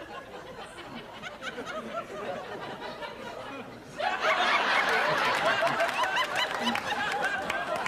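A group of people laughing, the laughter jumping much louder about four seconds in.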